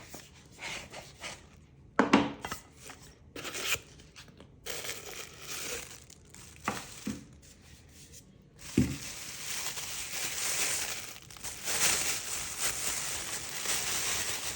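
Unboxing packaging being handled: a few knocks and clicks at first, then from about nine seconds in a steady crinkling and tearing of wrapping.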